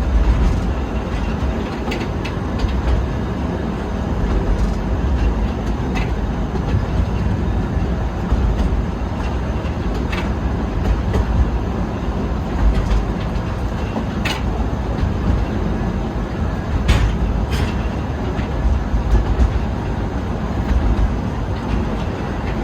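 Forest railway train running: a steady low rumble of the cars on the track, with a sharp wheel click every few seconds.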